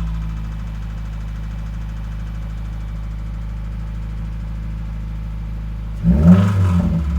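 2015 Subaru WRX's turbocharged flat-four engine idling steadily, then revved briefly about six seconds in. The owner takes its knock for rod knock at 49k miles.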